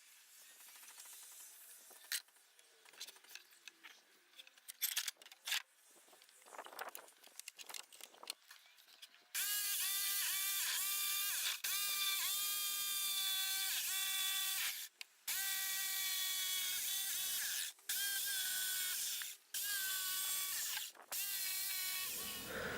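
Scattered light knocks and handling clicks, then, about nine seconds in, a power saw starts cutting out the curved arch shape and runs with a steady whine in several stretches, stopping briefly between cuts.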